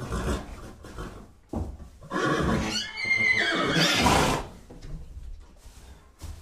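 A horse neighing: one loud whinny of about two seconds beginning about two seconds in, its pitch wavering and falling away. Quieter knocks and shuffles follow.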